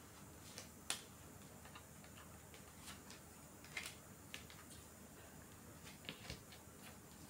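Faint, irregular clicks and ticks, several sharp ones a second or two apart, over quiet room tone.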